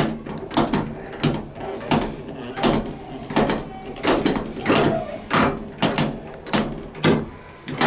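Power controller handle of an old W-class tram being turned through its notches, giving a string of sharp metal clicks and clunks, with a heavier clunk near the end.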